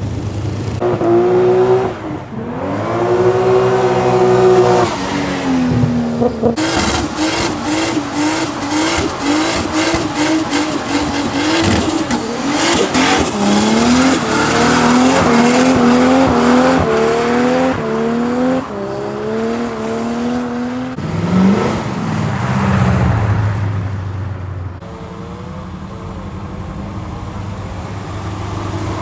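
Car engine revved hard during a burnout, with tyre squeal. The revs rise and fall a few times, then are held high in quick repeated surges with tyre noise for about fifteen seconds, before dropping back to a lower engine note about three-quarters of the way through.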